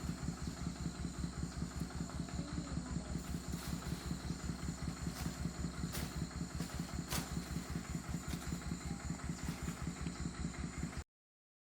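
Tractor diesel engine idling steadily, with an even pulse several times a second; it cuts off abruptly near the end.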